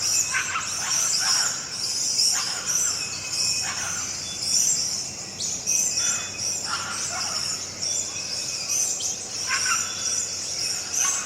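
Outdoor nature ambience: several birds calling and chirping over a continuous high chirring of insects.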